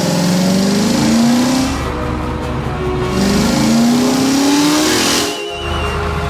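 Cartoon sound effect of a race car engine revving up twice, the pitch rising over about two seconds each time, over background music.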